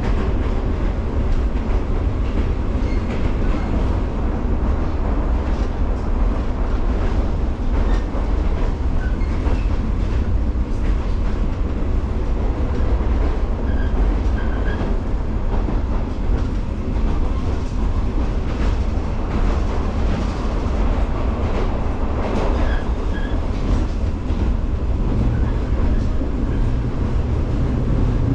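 A JR 115-series electric multiple unit running along the line: a steady low rumble of wheels and running gear, with faint wheel-on-rail clicks.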